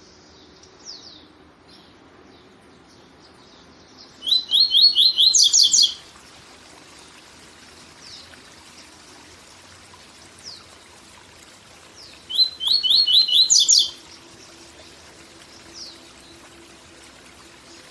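Papa-capim (seedeater) singing its 'tui tui zel zel' song twice, about four seconds in and again near twelve seconds: a quick run of about five clear repeated notes, then a higher buzzy phrase. A steady waterfall rush runs underneath, with a few faint short falling notes between the songs.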